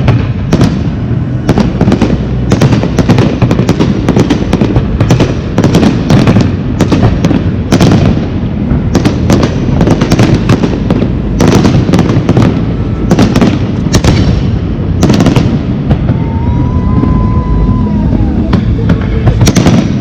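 A fireworks display: a dense barrage of sharp bangs and crackles over a continuous low rumble of bursting shells. A thin whistling tone rises and falls for about two seconds near the end.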